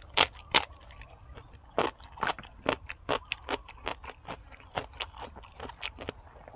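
A person chewing crunchy food close to the microphone: irregular crunches and wet clicks, a few a second, the two loudest right at the start.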